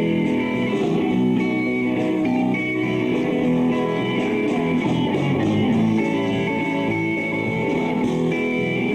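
Live band playing a blues-rock passage led by guitar, with bass underneath and no vocals.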